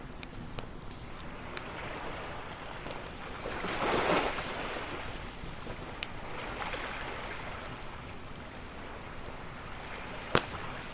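Ocean waves washing onto a shore, one swelling up about four seconds in and a smaller one near seven seconds, over the sharp pops and crackles of a wood campfire, the loudest pop near the end.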